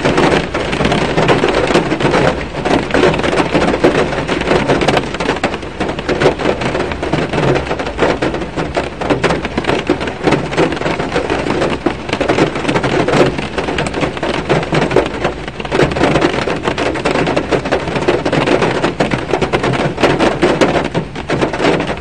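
Heavy rain falling on a car, heard from inside the cabin: a dense, steady patter of countless drops hitting the glass and bodywork.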